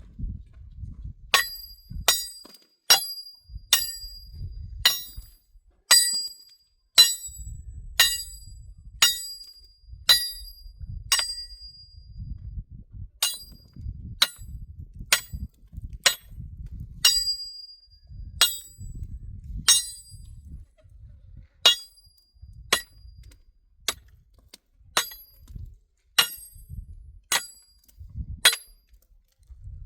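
Repeated metallic hammer blows, about one a second, each with a brief ringing note; there is a short pause about twelve seconds in.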